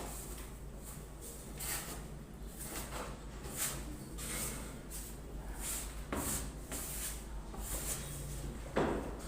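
Repeated scraping strokes of a putty knife or trowel spreading wall putty, roughly one a second, with a sharper knock near the end.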